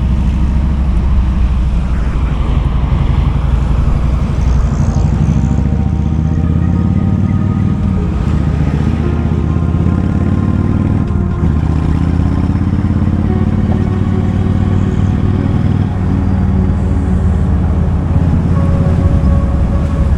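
Kawasaki Vulcan 2000's big V-twin engine running while riding in traffic, its pitch rising and falling with the throttle, most clearly in the middle.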